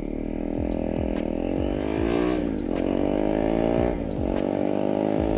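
KTM 390 Duke's single-cylinder engine pulling under acceleration while riding. Its pitch climbs, drops sharply about two and a half seconds in and again near four seconds, and climbs again each time, as it shifts up through the gears.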